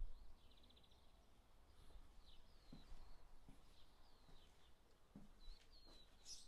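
Faint outdoor quiet with small birds chirping: scattered short chirps and whistled slurs, and a brief rapid rattling call near the start.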